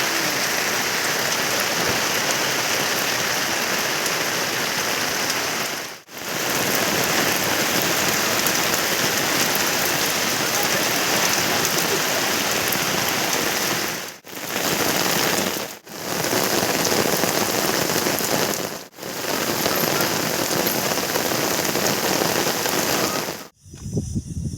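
Heavy monsoon rain pouring down, a dense steady hiss that drops out for a moment four times and falls away to a much quieter background near the end.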